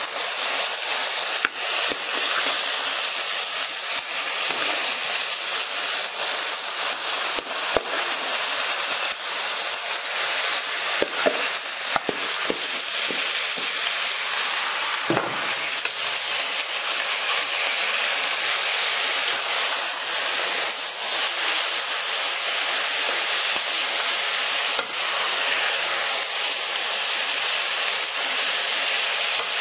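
Raw chicken strips sizzling and frying in hot oil with onions in a stainless steel pan, a steady hiss that jumps up as the chicken goes in. Now and then a utensil clicks and scrapes against the pan as the chicken is stirred.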